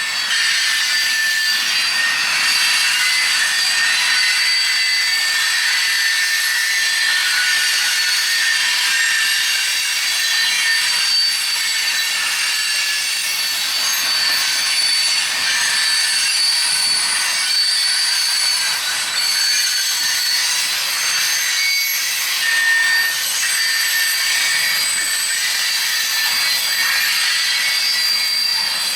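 Freight cars' steel wheels squealing against the rail as the train rounds a curve: several thin, high squeals come and go over a steady hiss.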